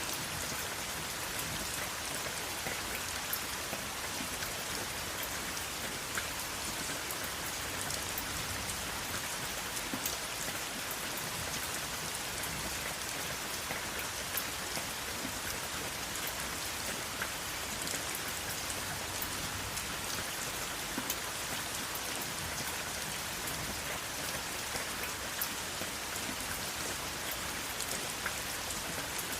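Steady rain with no thunder, a constant hiss dotted with many small, sharp drop taps.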